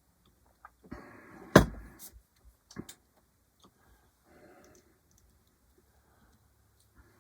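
Handling noise: a rustle with one sharp knock about a second and a half in, a smaller click a second later, then a brief faint rustle and a few light clicks.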